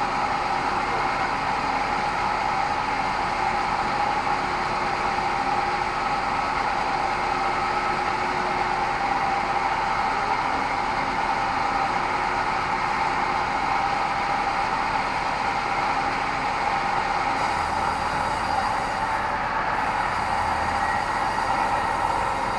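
Sawmill band saw running steadily, a constant pitched hum over a noise haze.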